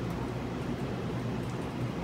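Electric commuter train approaching the station from a distance: a steady low rumble and hum.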